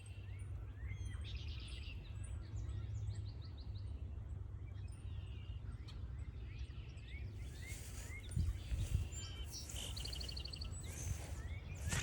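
Several songbirds chirping and trilling in short, repeated calls over a steady low outdoor rumble, with a few dull thumps about two-thirds of the way in.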